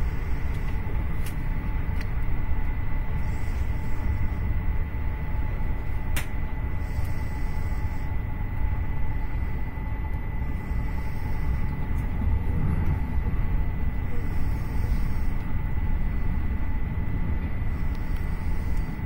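Steady low rumble of an Intercity passenger train running at speed, heard from inside the carriage, with a faint steady high whine and a few sharp clicks.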